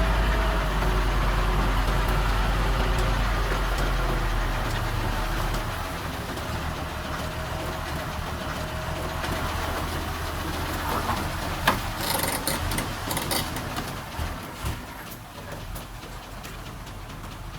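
Diesel engine of earthmoving machinery running, a heavy low rumble for the first five seconds or so, then quieter. About twelve seconds in there is a sharp knock, followed by a second or so of metallic clattering.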